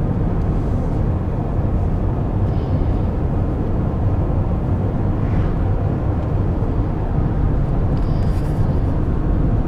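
Steady low rumble of a vehicle driving along a highway: road and engine noise with no break.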